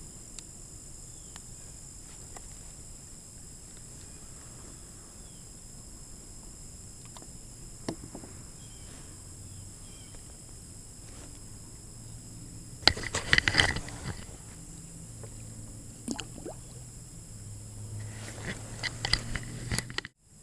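Steady high-pitched drone of insects, crickets or similar, over quiet outdoor air. Two bouts of knocking and scraping against a kayak hull break through, one about two-thirds of the way in and another near the end, with a few single clicks between them.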